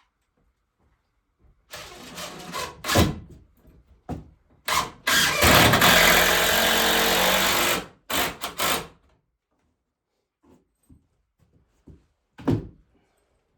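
A handheld power tool working wood: short bursts, then one run of about three seconds that cuts off, with sharp knocks before and after.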